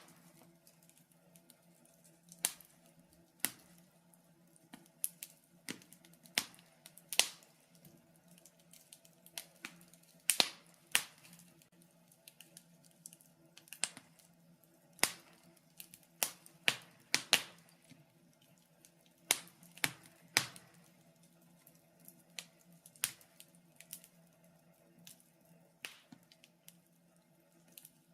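Wood fire crackling in a fireplace: irregular sharp snaps and pops, a few of them louder, over a faint steady low hum.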